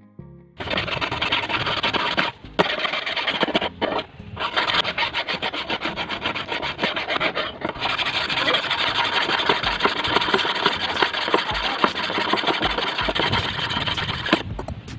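Steady abrasive rasping of rust being scrubbed off steel scissors blades, broken by a few brief pauses.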